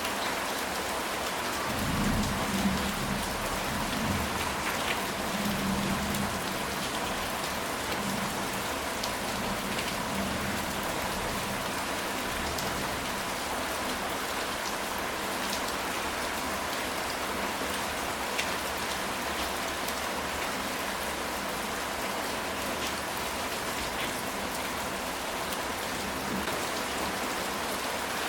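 Steady rain falling on a ceramic tile roof. A low rumble of thunder comes about two seconds in and fades by about seven seconds.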